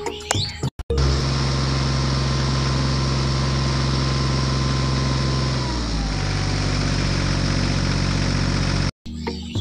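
Tractor engine idling steadily, a spliced-in sound effect that cuts in abruptly about a second in. It drops slightly in pitch about six seconds in and cuts out abruptly near the end.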